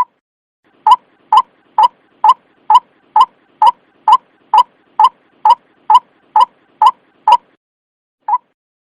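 White-breasted waterhen calling: a steady series of short, identical notes, about two a second, then a short pause and one more note near the end.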